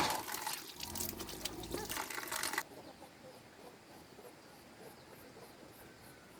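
Running water splashing, which cuts off abruptly about two and a half seconds in. Faint high chirps follow, repeating about three times a second.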